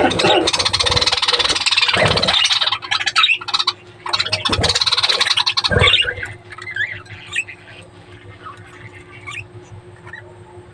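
Budgerigars chattering and squawking, loud in two stretches over the first few seconds and again around the middle, then fainter scattered chirps.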